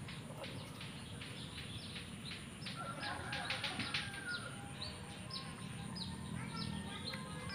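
Small birds chirping: a string of short chirps that fall in pitch, crowded together about halfway through and then about two a second, over a steady high-pitched whine.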